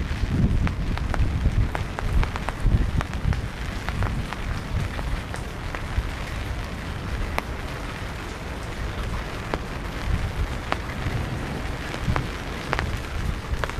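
Steady rain falling, with many separate drops ticking sharply on a nearby surface. A low rumble lies under it, heavier in the first few seconds.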